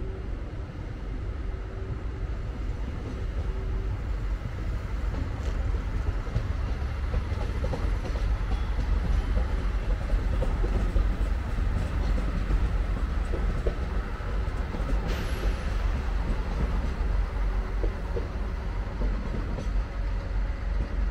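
TER Alsace regional passenger train rolling past on the station tracks: a steady low rumble that grows louder toward the middle as it goes by.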